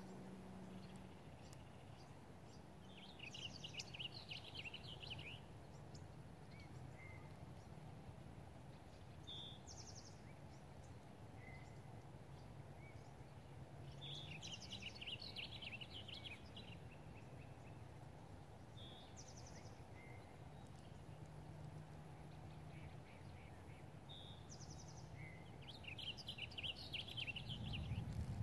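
A bird singing a short chirpy phrase that repeats about every ten seconds, with single short call notes in between, over a faint low steady rumble that grows louder near the end.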